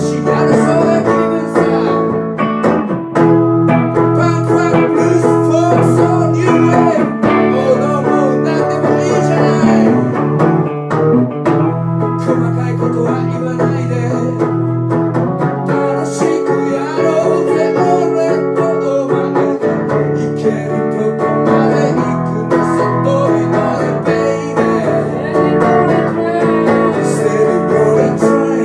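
Blues played on guitar, chords strummed and picked, changing every few seconds.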